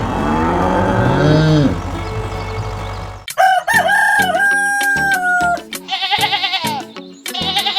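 A rooster crowing over a steady low rumble, then background music with a melody and a regular beat starting about three seconds in.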